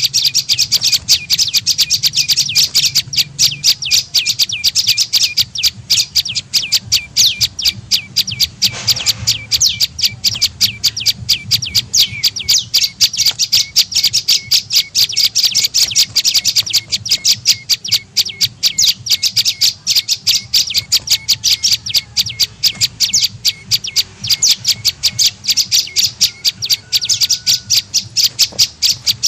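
Prenjak lumut bird calls used as a lure (pikat) recording: a fast, unbroken run of high-pitched chirps, about five or six a second.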